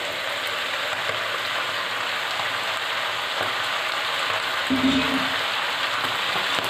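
Steady sizzling of vegetables, sauce and noodles frying in a hot wok while boiled noodles are tossed in with a spatula.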